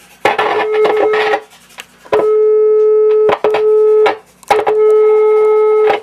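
Sine-wave test tone from a signal generator played through one channel of a Rhodes Mark II suitcase power amplifier, a steady mid-pitched tone with overtones. It cuts in and out four times, crackling at the first start, showing the channel is now passing signal.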